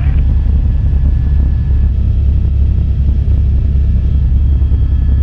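Helicopter cabin noise: a loud, steady low rumble with faint, thin whining tones held above it.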